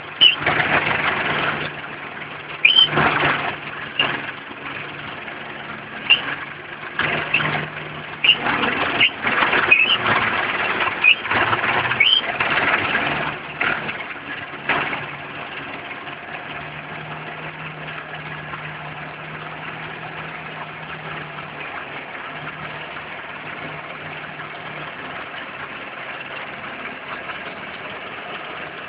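Belarus tractor's diesel engine running steadily. Over the first fifteen seconds or so, repeated loud bursts of rushing noise come and go on top of it, then only the steady engine drone remains.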